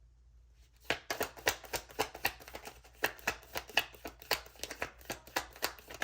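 A deck of tarot cards being shuffled by hand: a quick, continuous run of card clicks and slaps that starts about a second in.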